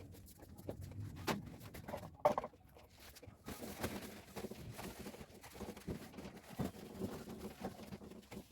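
Hands handling items while cleaning. Two knocks come early on, the second about two seconds in with a short clink, and then from about three and a half seconds in comes a steady run of light scraping and rustling.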